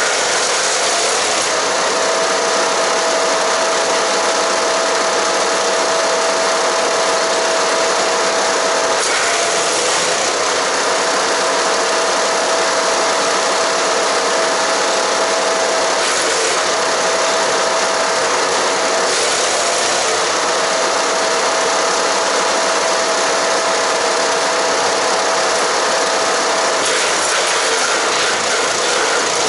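Haige 15 hp engine-driven wood chipper running under load, chipping cedar and cypress branches: a steady loud grinding noise with a constant whine that drops out briefly several times.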